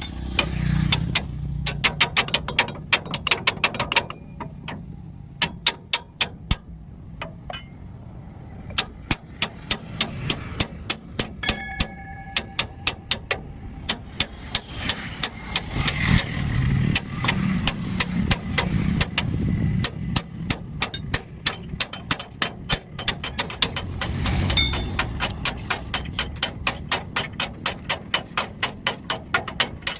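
Steel hammer strikes on a truck leaf spring, in runs of about three to four blows a second with short pauses, some blows leaving a faint metallic ring. A low rumble rises under the strikes in the middle and again near the end.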